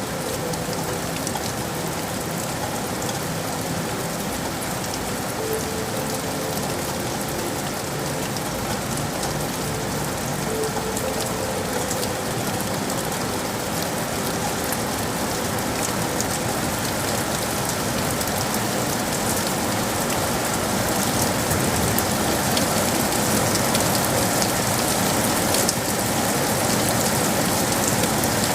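Steady rain falling and pattering on hard surfaces, with dense drop ticks; it grows slightly louder in the second half.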